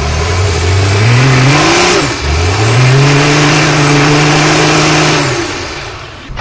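Tractor engine revving hard. Its pitch climbs, drops briefly about two seconds in, climbs again and holds high, then falls away near the end.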